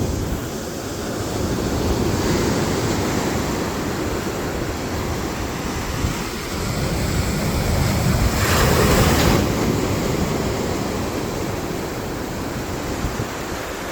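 Ocean surf: waves about three feet tall breaking and washing up the beach, with wind buffeting the microphone. One wave breaks louder about nine seconds in.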